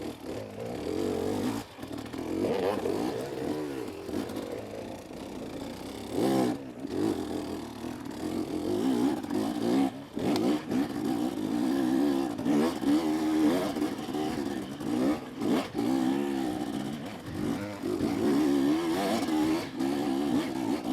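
KTM 250SX two-stroke dirt bike engine revving up and down over and over under hard, choppy throttle on a technical trail. Its pitch rises and falls constantly and dips briefly a few times, with scattered knocks and rattles from the bike over the terrain.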